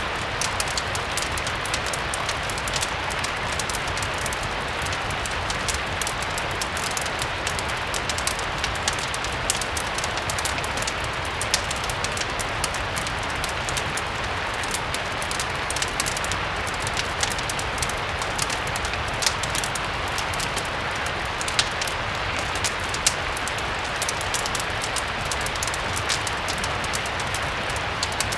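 Steady rain mixed with the scattered small pops and crackles of a wood fire, over a low rumble.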